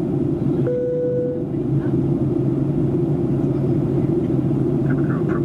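Steady in-flight cabin noise of a Boeing 737-800, a low, even rumble of airflow and engines. About a second in, a short single steady tone sounds, like a cabin chime.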